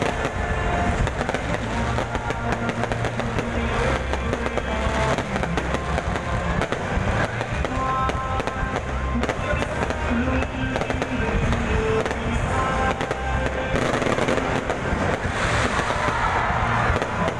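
Aerial firework shells bursting and crackling in quick succession, with music playing over them.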